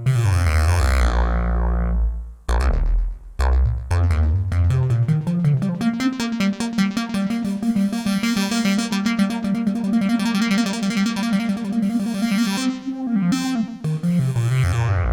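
IK Multimedia Uno Synth PRO analog synthesizer playing a factory preset, recorded straight from its output. Deep bass notes come first, then a few short notes, then a fast repeating run of notes over a held tone for several seconds, and deep bass notes return near the end.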